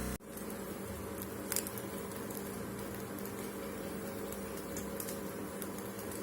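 Steady hum and hiss of kitchen background noise, with a few faint clicks.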